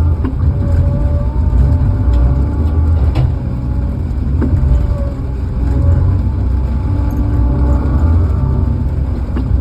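Log loader's diesel engine running steadily, with a higher whine that comes and goes over its low rumble.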